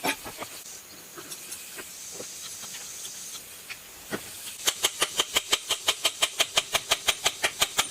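Hand tools clicking and knocking on the metal casing of a self-priming water pump as it is taken apart: scattered light taps, then a rapid, even run of sharp clicks, about six a second, for the last three seconds.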